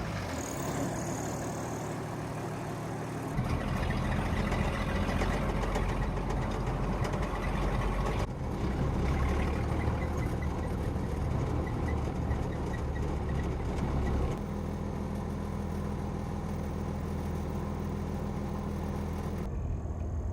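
A vehicle engine running continuously. Its low drone shifts in level and pitch a few times as it drives.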